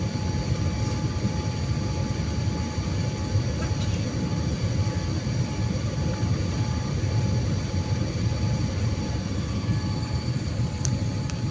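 Steady rumbling cabin noise of a passenger jet, heard from inside the cabin, with a steady whine running through it.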